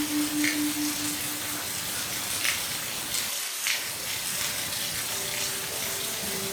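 Rain falling steadily, an even hiss with a few sharper drop taps. A low pulsing tone sounds over it for the first second and a half, and soft held music notes come in near the end.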